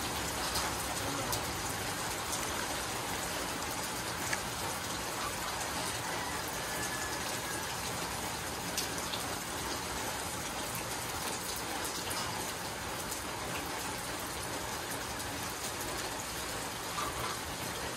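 Steady rain falling on the surfaces around, an even hiss with a few faint ticks.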